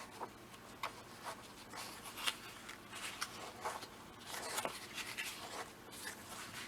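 Paper pages of a comic book being handled and turned: soft, scattered rustles and rubs.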